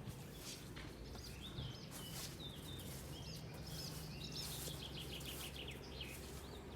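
Small birds chirping faintly, a string of short high notes with a quick run of repeated notes a little past halfway, over quiet outdoor background noise.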